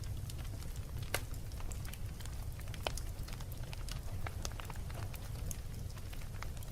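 Wood fire in a fireplace crackling, with a steady low rumble of burning and scattered sharp pops and snaps; the two loudest pops come about a second in and just before three seconds in.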